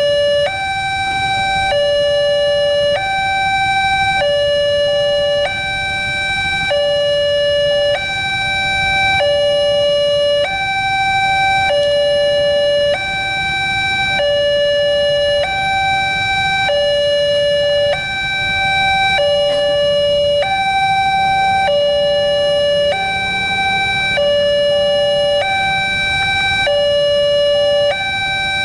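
Railroad level-crossing warning alarm sounding a steady two-tone hi-lo signal, switching between a higher and a lower tone a little more than once a second, over a low rumble.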